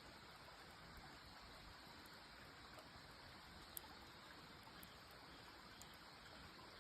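Campfire burning very quietly: a faint steady hiss with a few sparse, sharp crackles from the burning wood, the clearest a little before four seconds in.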